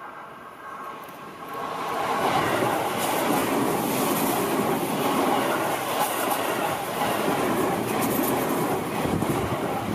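Seibu Ikebukuro Line electric commuter train approaching and passing close by. The noise rises over the first two seconds, then stays loud and steady as the cars roll past.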